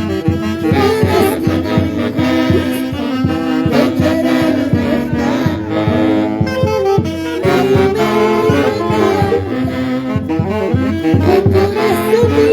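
Live orchestra playing an instrumental passage led by saxophones, over a steady drum beat.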